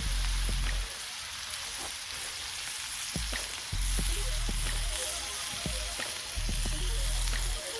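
Marinated chicken thighs sizzling in hot oil in a cast iron skillet, a steady hiss with scattered small pops. A low rumble rises and fades several times underneath.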